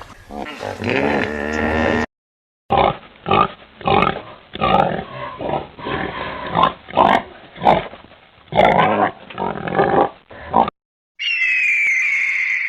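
A pig grunting over and over in short separate grunts for about eight seconds. Before it, the end of another animal's pitched call cuts off. Near the end a high bird call begins.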